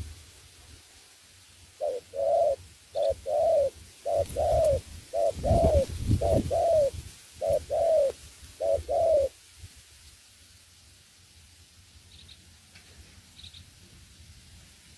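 Spotted dove cooing: about six coos in a row, each a short note followed by a longer arching one, over roughly seven seconds before it stops. Faint high chirps of a small bird are heard now and then.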